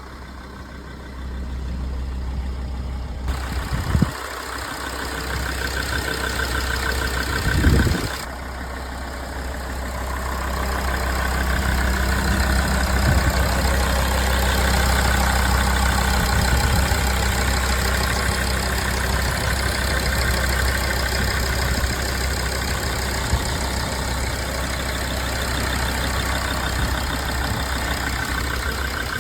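Mercedes-Benz OM648 3.2 CDI inline-six diesel idling steadily in a GAZelle Next. Two brief thumps come about 4 and 7.5 seconds in.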